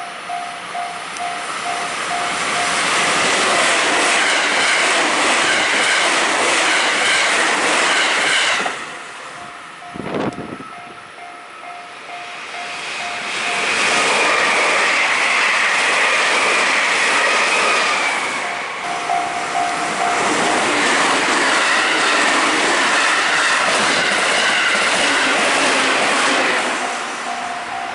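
Electric trains passing over a level crossing, wheels clattering on the rails, while the crossing's warning bell dings in a quick steady rhythm. The train noise fades about nine seconds in, and another train comes through a few seconds later.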